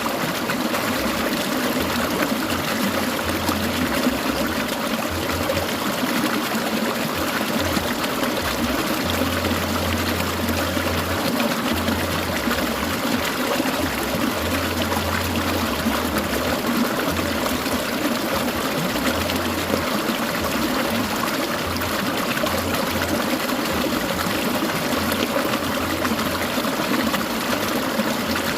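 Clear mountain stream water trickling, a steady, even rush of water, with a low rumble that comes and goes.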